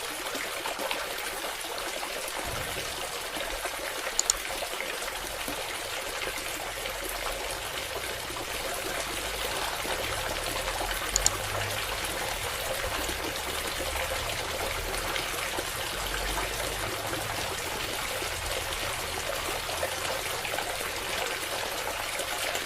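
A steady stream of water trickling and pouring, pumped out by a small submersible water pump, with a faint low rumble beneath. Two brief sharp clicks come about four and eleven seconds in.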